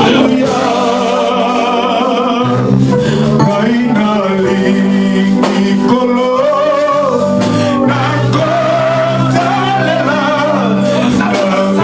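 Gospel worship music: a voice singing with a wavering vibrato over held, sustained low chords that change every second or two.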